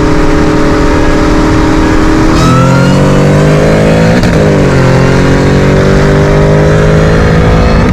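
Supercharged V8 heard from inside the car, cruising steadily, then going to full throttle about two and a half seconds in and pulling hard with the pitch climbing. A quick gear shift drops the pitch about four seconds in, and the engine then climbs again.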